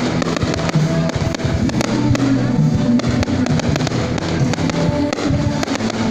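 Music playing loudly, with fireworks cracking and popping throughout.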